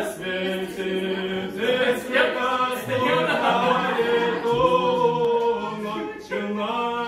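A group of voices singing a cappella, holding long notes in harmony.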